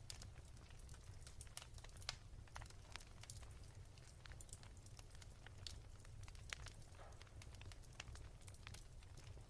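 Wood fire crackling softly: irregular small pops and snaps over a steady low hum.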